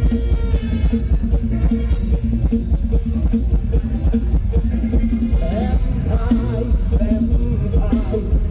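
Mor lam band playing an instrumental passage: a drum kit keeps a steady, driving beat under a repeating bass line and plucked guitar lines.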